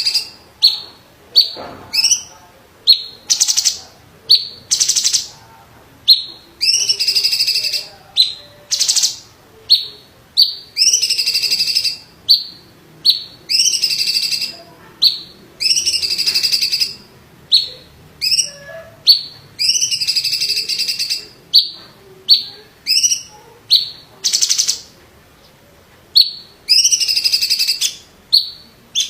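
Cucak cungkok leafbird singing a rapid series of high chips and longer phrases of about a second each, repeating with short gaps.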